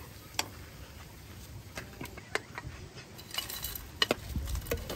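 A knife knocking irregularly on a wooden cutting board while slicing potatoes, with a few light metallic clinks of utensils.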